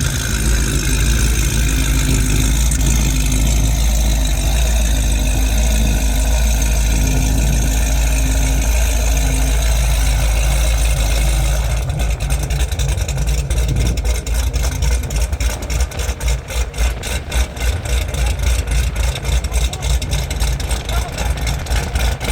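A car engine running loudly, with voices mixed in; about twelve seconds in, the sound turns choppy and fluttering.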